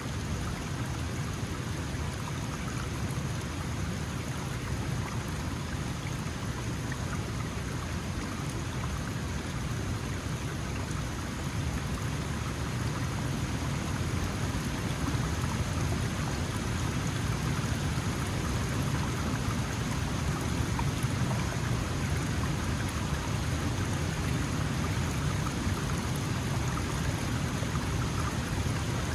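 Small mountain stream flowing steadily over stones, a continuous rushing and splashing of water that grows a little louder about halfway through.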